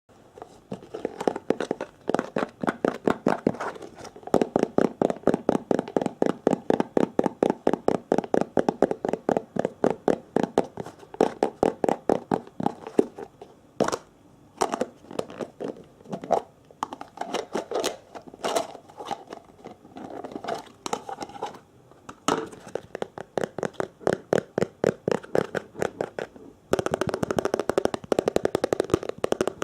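ASMR tapping on hard objects close to the microphone: quick, even runs of several taps a second with short pauses. Near the end the tapping turns faster and denser.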